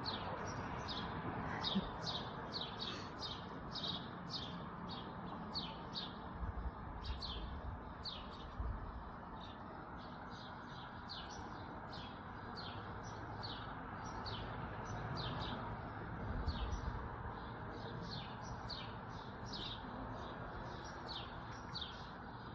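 Many small birds chirping together, a dense run of short, high chirps several times a second, over a steady low background hum.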